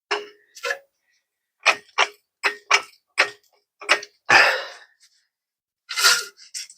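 Sharp metal-on-metal knocks, about ten at uneven spacing, each with a brief ring, from steel suspension parts being knocked while a rear lift block and axle are worked into line. A longer scraping or rushing sound comes about four seconds in.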